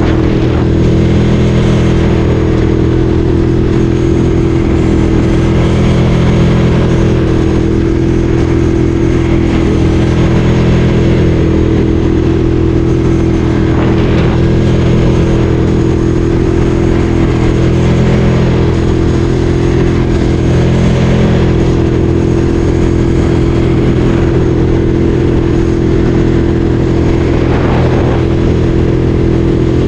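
Ducati Streetfighter 848's L-twin engine running steadily as the motorcycle is ridden, its pitch rising and falling only slightly with small throttle changes.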